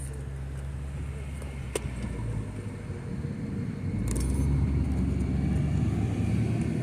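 A vehicle's engine running at idle with a steady low rumble, growing louder about four seconds in, with a single sharp click near the two-second mark.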